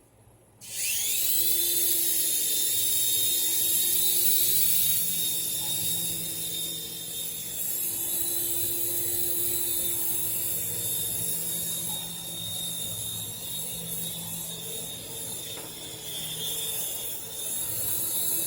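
Toy remote-control helicopter's small electric rotor motors spinning up about a second in with a rising high whine, then running steadily with a slight rise and fall in speed.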